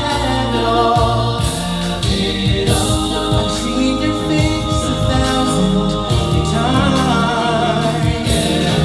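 Music with a group of voices singing together in harmony over sustained low notes.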